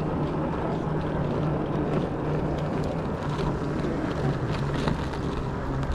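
Steady vehicle noise: a low hum held under a constant rushing noise, with no sudden events.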